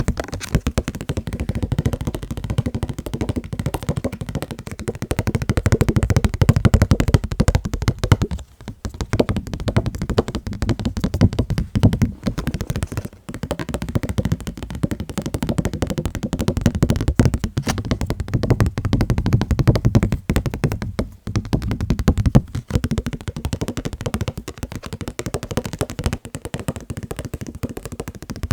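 Fast, continuous tapping on the items of a fan membership kit, a dense run of quick taps with a few brief breaks.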